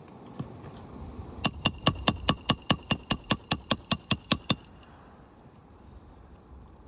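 Hammer driving a roofing nail: about sixteen quick, evenly spaced metallic blows, around five a second, each with a short ring, stopping after about three seconds.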